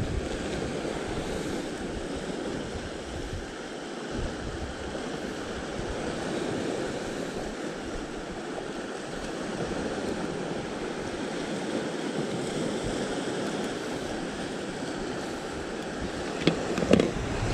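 Sea surf washing steadily against a rocky shore, with wind buffeting the microphone. Near the end come a few short sharp knocks.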